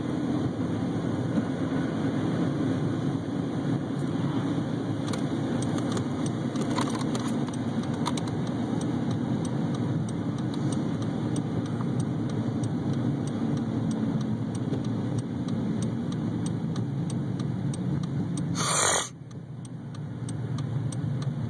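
Steady low road rumble of a vehicle driving slowly over a bumpy, snow-packed road, with small knocks and rattles from the bumps. Near the end there is a brief loud rush, after which the rumble is quieter.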